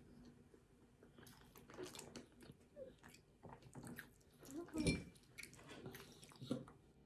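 Faint, close-miked chewing of soft banana cake, with many small wet mouth clicks. A louder bump about five seconds in as a muffin in a paper liner is picked up.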